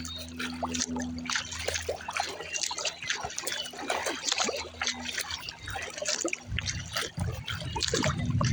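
Water dripping and splashing in many small, quick splashes around a kayak on open water. A low rumble comes in about six and a half seconds in.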